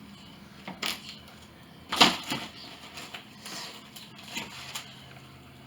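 Footsteps crunching and knocking on the debris-strewn wooden floor of a decaying house: a few scattered steps and cracks, the loudest about two seconds in.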